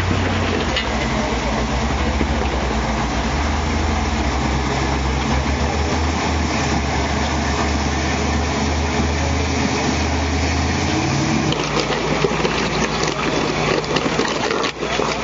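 Off-road vehicle's engine running at low revs while rock crawling, with a steady low hum that pulses for a few seconds. About eleven seconds in the engine note shifts, and scattered clicks and knocks follow.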